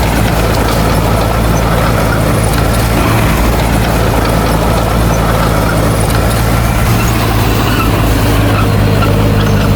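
Diesel engine of heavy earthmoving machinery running steadily, a low even engine note with rough mechanical noise over it.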